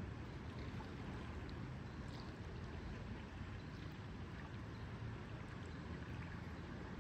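Steady lakeside water ambience: lake water gently lapping, over a continuous low rumble, with a few faint high ticks.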